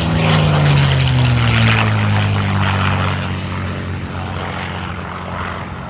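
Aircraft flying past low, a loud droning whose low tones slowly fall in pitch as it passes, loudest in the first second or two.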